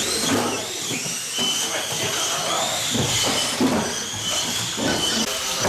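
Electric 1/18-scale off-road RC cars racing: a high motor whine that rises and falls in pitch as the cars speed up and slow down.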